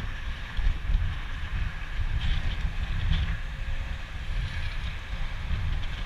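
Wind rushing and buffeting over the microphone of a moving motorcycle, with the low rumble of the Harley-Davidson Street Glide's V-twin underneath, steady at cruising speed.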